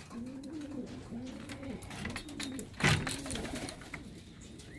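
Domestic pigeons cooing over and over, a string of low rising-and-falling coos, with one sharp knock about three seconds in.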